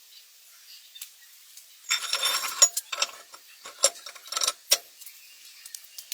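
Metal hardware clinking and rattling: a cluster of sharp, ringing metallic clicks and clatters from about two seconds in to nearly five seconds.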